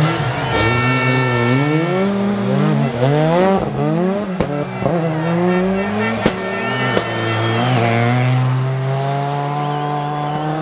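Rally car engine revving hard, its pitch climbing and dropping repeatedly as it shifts through the gears, with two sharp bangs about six and seven seconds in and brief tyre squeal.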